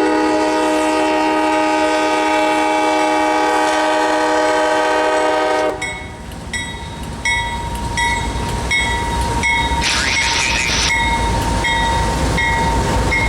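CSX freight locomotive's multi-chime air horn sounding one long blast that cuts off about six seconds in, followed by the locomotives rumbling past with wheels clacking on the rails, a bell ringing about twice a second and a brief hiss near the end.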